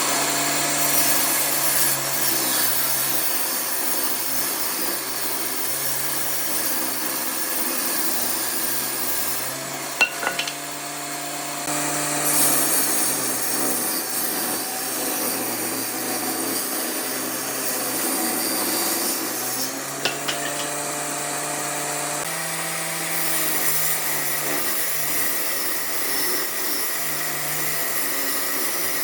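A power tool working wood: a steady motor hum over coarse grinding noise, its pitch stepping up and down several times as the load changes.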